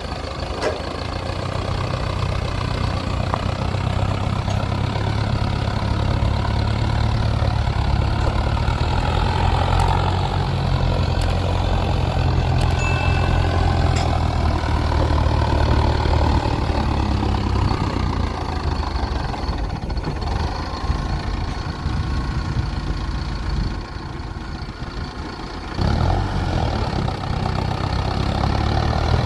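Heavy diesel machinery engine running steadily under work. It drops back for about two seconds near the end, then picks up again.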